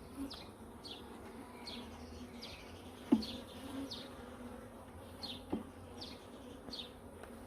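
A colony of honeybees buzzing around an open hive, a steady low hum. A sharp knock, the loudest sound, comes about three seconds in and a softer one a couple of seconds later. Short high falling chirps repeat throughout.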